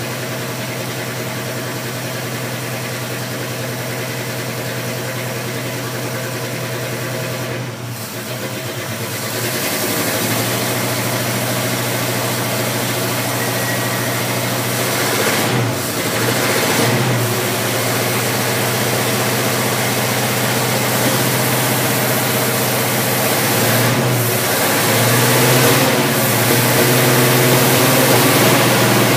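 1967 Ford Mustang's carbureted V8 idling steadily. It gets louder about ten seconds in, and the pitch wavers briefly a few times later on.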